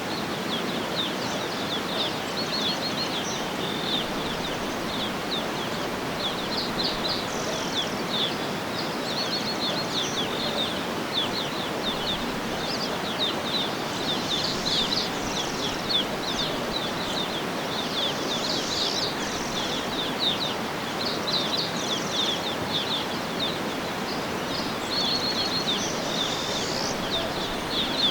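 Small birds chirping and trilling continuously in quick, high-pitched bursts over a steady, even background rush of outdoor ambience.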